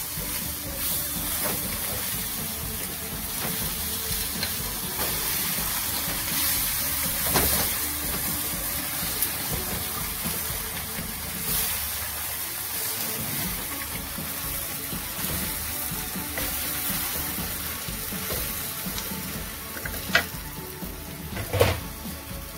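Sweet potato leaves sizzling in hot oil in a frying pan as they are stir-fried and turned with a wooden spatula, a steady frying hiss. A few sharp knocks stand out, two of them near the end.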